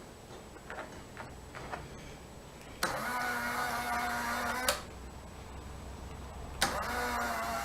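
Fleischmann model-railway turntable's small electric motor and gear drive running under power, with a steady whine. It runs for about two seconds starting about three seconds in, stops, then starts again near the end, after a few faint clicks of handling.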